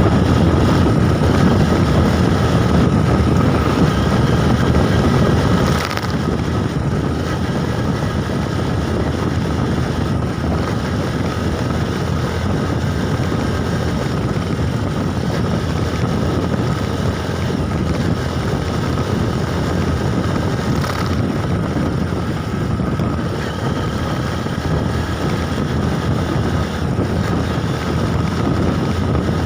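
Wind rushing over the microphone and steady road noise while riding a bike, with a faint steady whine; the level drops slightly about six seconds in.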